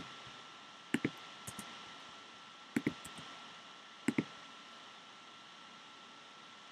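Computer mouse clicking: three quick double clicks, about a second or two apart, over a faint steady hiss with a thin high hum.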